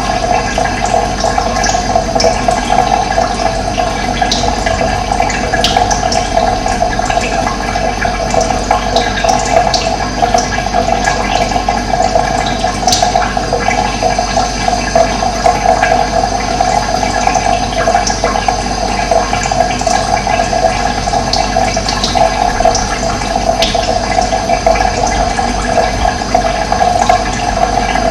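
Running water flowing steadily, with occasional brief high bird calls over it.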